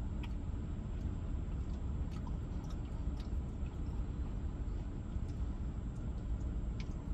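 Steady low rumble inside a vehicle cabin, with a few faint scattered clicks and rustles.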